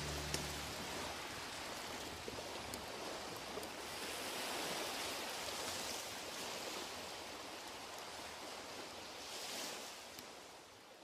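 Outro music ends about a second in, leaving a steady rushing noise like surf or flowing water, with a few faint clicks. The noise swells twice and then fades away near the end.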